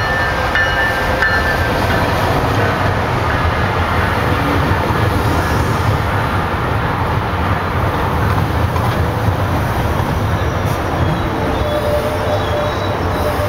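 GO Transit bilevel commuter coaches rolling past at close range as the train comes into the station: a loud, steady rumble of steel wheels on rail, with faint thin squealing tones in the first couple of seconds and again near the end.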